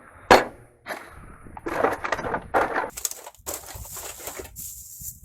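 Loose objects being rummaged and handled: a sharp knock near the start, then irregular clattering and rustling.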